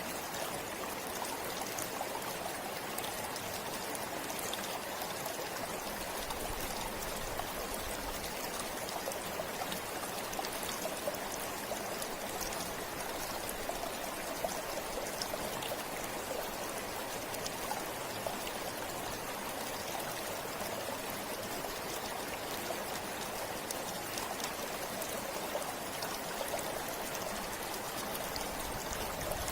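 A river flowing steadily, the water rushing and splashing over rocks with a continuous rush and many small drips and splashes.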